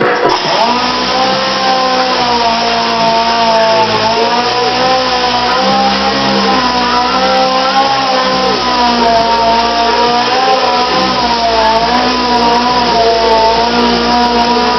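Handheld power sander running steadily on the car's body panel, its motor pitch wavering and dipping slightly now and then as it is pressed against the metal.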